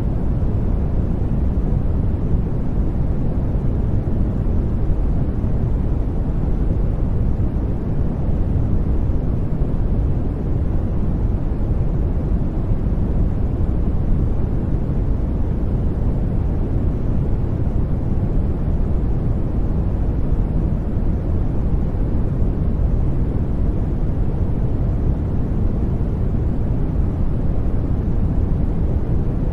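Steady generated noise, labelled white noise but weighted toward the low end: an even, deep rush with little treble hiss and no change in level.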